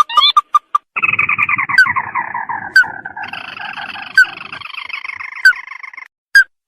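Lure-call recording of the sintar, the red-eyed crake (tikusan mata merah): a few short rising notes, then from about a second in a long, descending, rattling trill lasting some five seconds, with sharp clicks laid over it. It is the call trappers play to draw in a rival bird.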